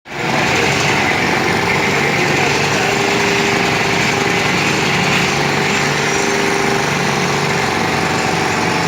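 Construction machinery running steadily on a building site: a motor-driven machine with a dense, rapid mechanical rattle.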